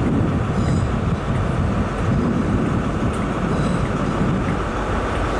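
A train running with a steady, low rumble.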